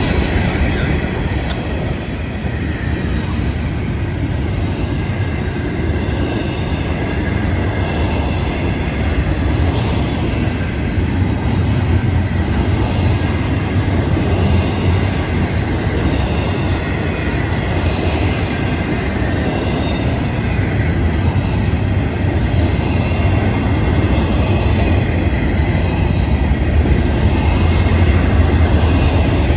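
Florida East Coast freight train's cars rolling past, tank cars and then double-stack container cars: a continuous rumble and rattle of steel wheels on the rails that stays steady, growing slightly louder near the end.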